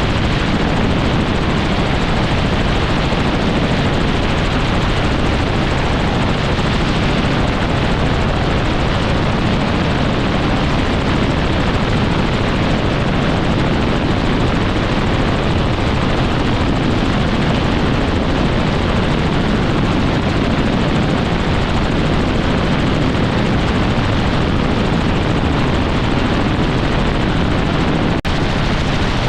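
Helicopter in flight, its rotor and engine making a loud, steady noise that doesn't change, with a brief dip just before the end.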